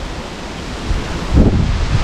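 Storm wind and rain making a steady rushing noise, with wind gusts buffeting the microphone and growing stronger about one and a half seconds in.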